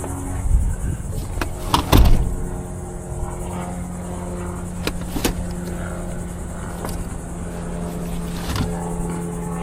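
Vehicle engine idling with a steady hum, with sharp knocks and clanks: a loud cluster about two seconds in, then single knocks later on.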